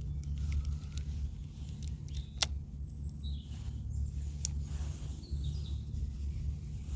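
A few short, faint bird chirps over a steady low rumble, with two sharp clicks, one about two and a half seconds in and one about four and a half seconds in.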